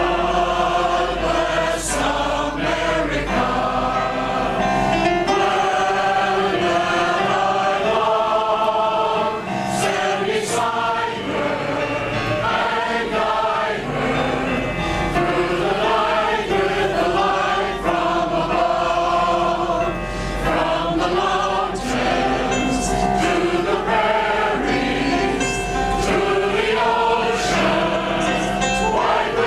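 Male chorus singing a song in parts, sustained chords moving from note to note.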